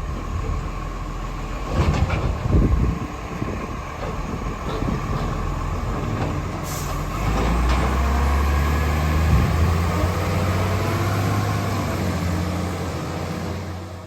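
Garbage truck engine running steadily, with a few knocks about two to three seconds in, then getting louder from about seven seconds in.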